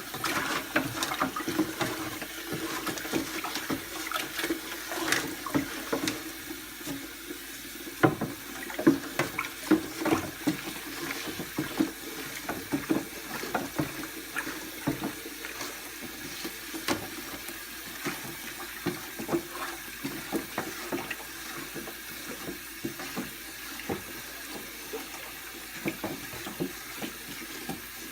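Water sloshing in a container as it is stirred to dissolve sodium carbonate (washing soda) for an electrolysis bath, with irregular clicks and knocks throughout.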